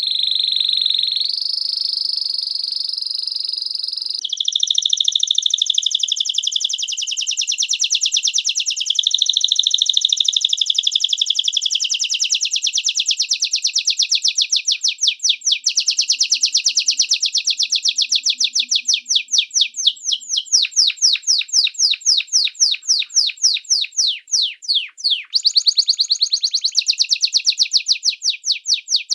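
Small songbird singing: a few seconds of held high whistling notes, then long trills of fast, evenly repeated high notes that speed up and slow down.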